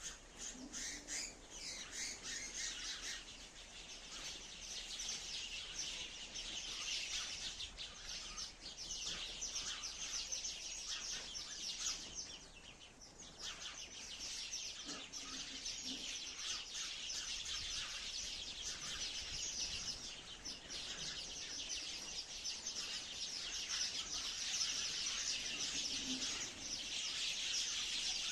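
Sparrows chirping continuously, many short overlapping high chirps in a dense chatter that dips briefly about halfway through.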